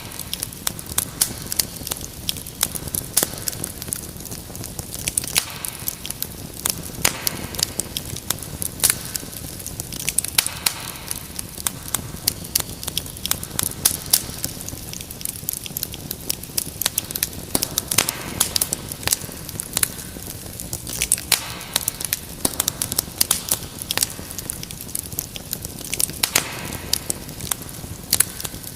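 Wood fire crackling steadily, with many irregular sharp pops and snaps over a soft low rumble of the flames.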